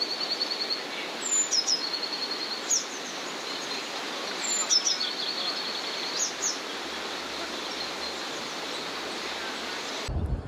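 Songbirds singing: a phrase of short high chirps and a quick even trill, repeated about three times, over a steady rushing outdoor background noise. The sound cuts off abruptly near the end.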